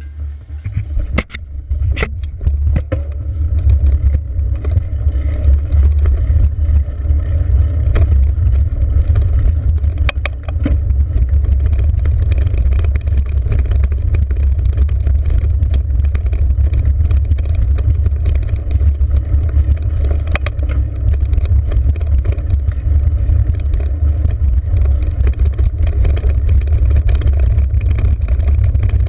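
Steady low rumble of a bicycle ride along a trail, with a few sharp clicks and knocks in the first few seconds.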